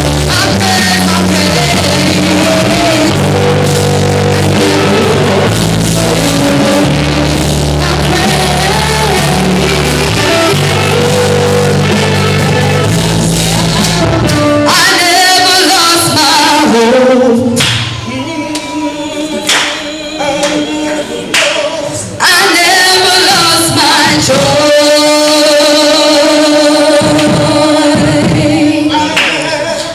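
Live gospel singing with band backing. For about the first half a steady bass line runs under the voices. About halfway the band drops back and the voices carry on over lighter accompaniment.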